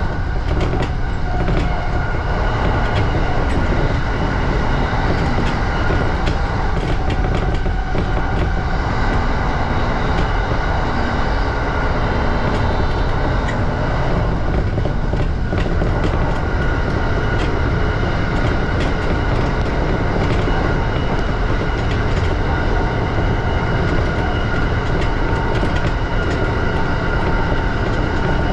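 E235-series electric train running at speed: a steady rumble of wheels on rail under several steady high tones, with scattered sharp clicks over the rails, most of them in the first half.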